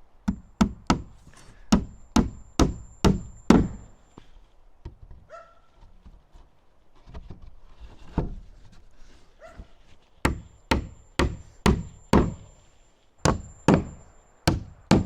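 Repeated hard blows on wood, in two runs of eight to ten strikes each at about two to three a second, with a few quieter knocks between the runs.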